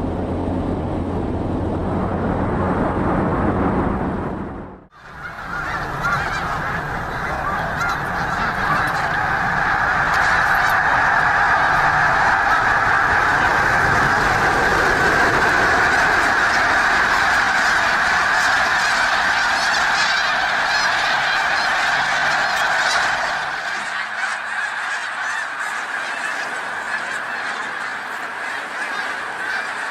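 A low rushing noise for the first five seconds, then, after an abrupt cut, a large flock of geese honking in a dense, unbroken chorus that thins a little after about 23 seconds.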